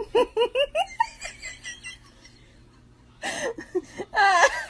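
A person laughing: a quick run of short bursts of laughter that trails off, then louder laughter again near the end.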